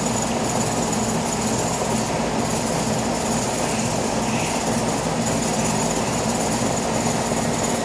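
Air conditioner outdoor condenser unit running: a steady mechanical hum from the compressor under the rush of the fan.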